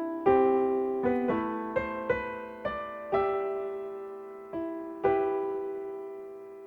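Slow, gentle solo piano music: single notes and soft chords struck one at a time, each left to ring and fade.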